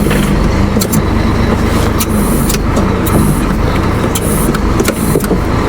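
Scania 114C lorry's diesel engine running steadily, with a series of sharp clicks and knocks over it.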